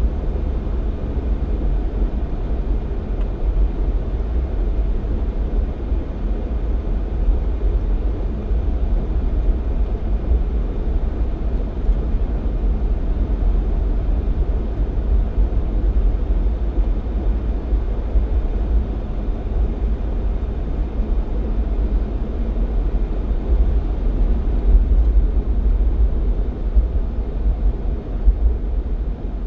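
Jeep Cherokee XJ driving at steady speed: a continuous low rumble of engine and tyres on the road.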